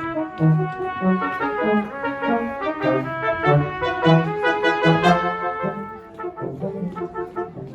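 Brass quartet playing a passage of music in several parts over a moving low bass line. About six seconds in, the playing drops to quieter, shorter notes.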